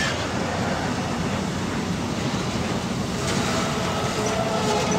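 Container freight wagons rolling past at speed, a steady rumble and rush of steel wheels on rail. Faint steady tones join in after about three seconds.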